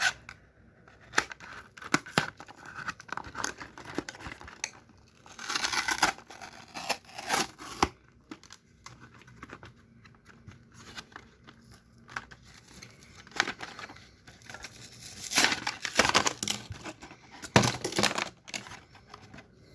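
Toy packaging being opened by hand: cardboard and plastic tearing and crinkling, with scattered clicks and taps, in a few louder bursts.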